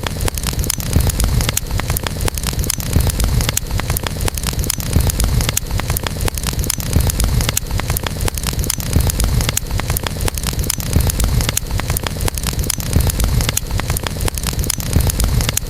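Campfire burning: frequent sharp crackles and pops over a steady low rumble of the flames.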